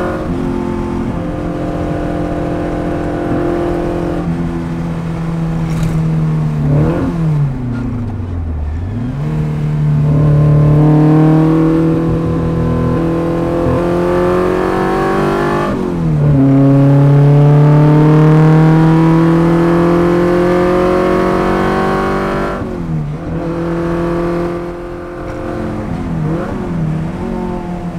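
Abarth 1000's small four-cylinder engine heard from inside the car on track, pulling hard through the gears. The pitch climbs in long sweeps and drops sharply at each gear change, with a lift-off and blips on the throttle about eight seconds in and again near the end.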